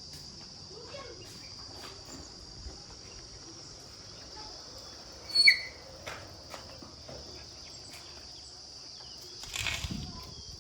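Steady high-pitched insect drone, like crickets, over quiet outdoor background. About five and a half seconds in comes one short, sharp, high call or squeak, the loudest sound here, and near the end a brief, louder rustling noise.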